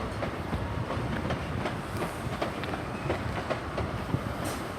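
A Class 43 InterCity 125 High Speed Train running slowly into the platform to terminate, its wheels clicking irregularly over rail joints and pointwork over a steady low rumble.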